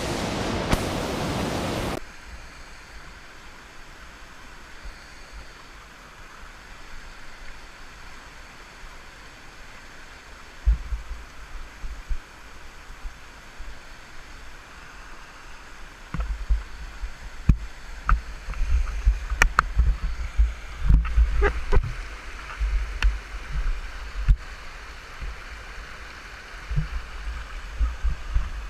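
River water rushing over a small waterfall, muffled by a GoPro's waterproof housing: loud for the first two seconds, then a quieter steady wash. From about ten seconds in, irregular low thumps and a few sharp knocks break in, thickest in the second half.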